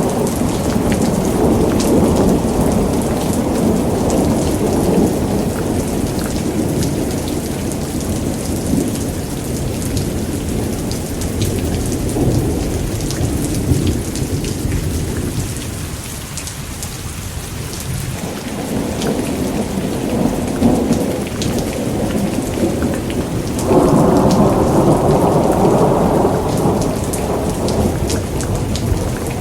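Thunderstorm: heavy rain falling steadily with rolling thunder. The low rumble fades out about halfway through and swells again a few seconds before the end.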